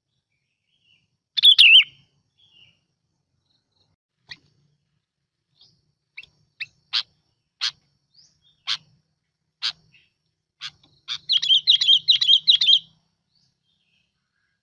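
A bông lau bulbul singing, as on a lure recording. It gives a short call about a second and a half in, then a series of sharp single notes roughly one a second, and near the end a quick, loud warbling phrase.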